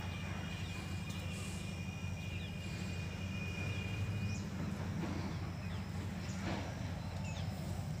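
Scattered bird chirps over a steady low rumble, with a thin steady high tone that stops about halfway.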